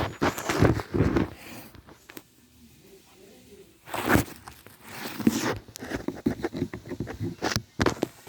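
Bursts of rustling and scraping, broken by clusters of short knocks and clicks that come thick and fast near the end: handling noise, things being moved and brushed against.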